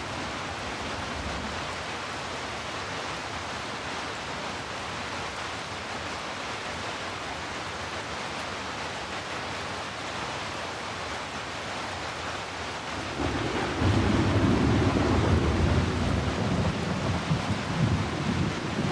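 Heavy rain falling in a steady, even hiss. About two-thirds of the way through, a deep rumble of thunder comes in and rolls on, louder than the rain.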